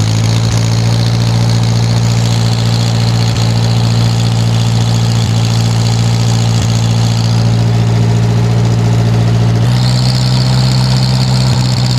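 Snowblower engine running steadily, warming up just after a cold start. About ten seconds in, its pitch steps up slightly.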